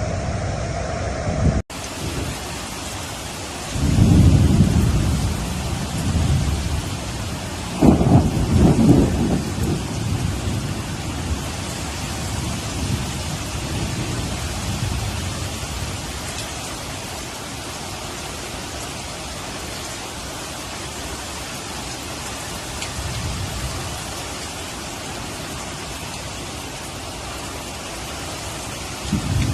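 Steady heavy rain with several rolls of thunder. The loudest starts with a sharp crack about eight seconds in and rumbles on for a few seconds, after a strong rumble near four seconds. The first second and a half holds a different steady noise that ends in an abrupt cut.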